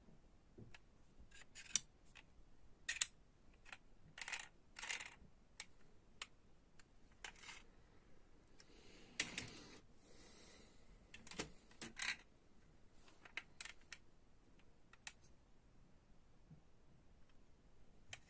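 Faint handling of diecast metal toy cars and their packaging: scattered sharp clicks and taps, with short scrapes and a longer rustle about nine seconds in.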